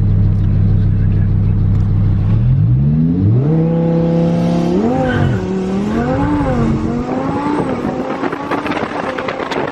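Twin-turbo 5.2-litre V10 of a Lamborghini Huracán LP610-4 running steadily at low revs. About two and a half seconds in, it revs up hard, and its pitch rises and dips again a few times before it fades into wind and road noise near the end.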